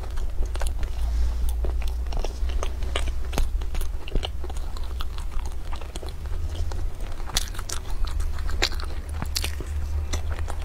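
Close-miked chewing of a flaky pastry, with many small crisp crackles and clicks as it is bitten and chewed.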